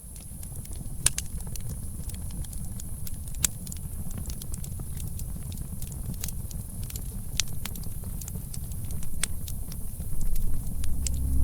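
Campfire crackling, with irregular sharp pops and snaps over a low rumble of fire and wind. A low droning tone comes in near the end.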